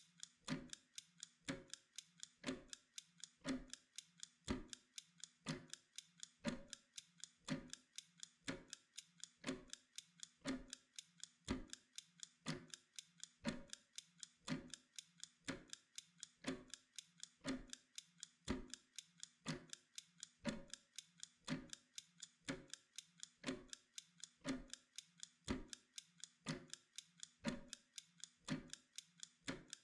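Mechanical kitchen timer ticking steadily, about two ticks a second in an even tick-tock rhythm.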